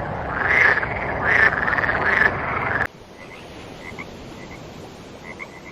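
Frogs croaking: a loud chorus with three strong pulses in the first three seconds, then an abrupt cut to a quieter recording with faint short calls.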